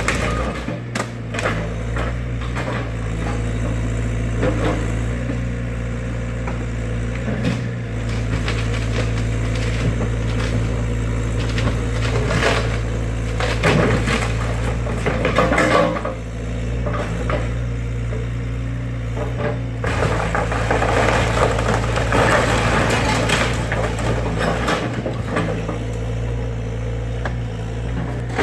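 Excavator's diesel engine running steadily while the wooden garage is torn apart, with repeated cracking, splintering and crunching of timber and debris.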